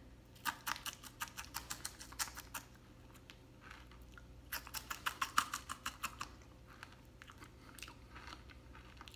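A person biting and chewing the crisp fried fin tips of a whole fried bluegill: two bouts of rapid crunching, the second starting about four seconds in, with quieter chewing near the end.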